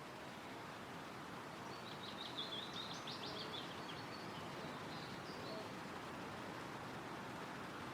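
Steady wind rustling through forest trees. A songbird sings one quick, high, rapid phrase about two seconds in, and a fainter call follows about five seconds in.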